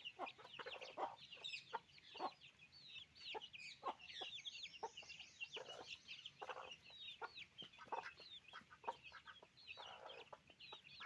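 Chickens clucking in short, irregular calls, with dense high chirping running over them.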